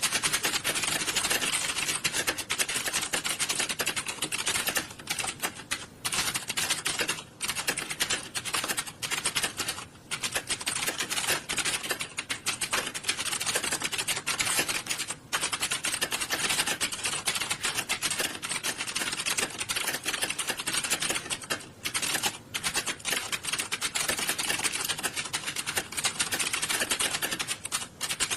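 Many computer keyboards typed on at once during a typing test: a dense, continuous clatter of key clicks with a few brief lulls.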